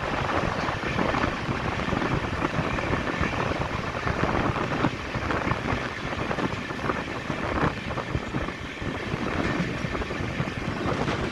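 Bundelkhand Express train running at speed: a steady rushing rumble with wind buffeting the microphone, and a few brief knocks.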